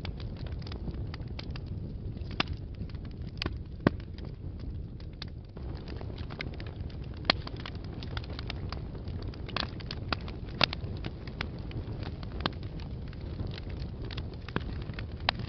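Wood fire burning in a fireplace: a steady low rumble of the flames with frequent scattered crackles and sharp pops, a few of them louder than the rest.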